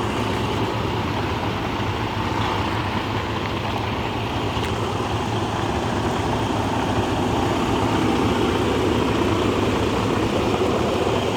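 Semi-truck diesel engine running steadily at low revs as the tractor-trailer backs up slowly.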